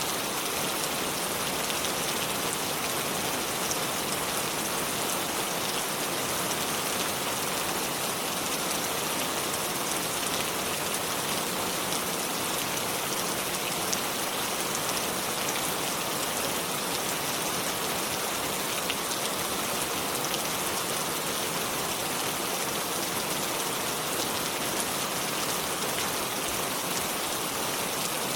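Steady rain falling, an even hiss of many small drops pattering on surfaces, with no thunder.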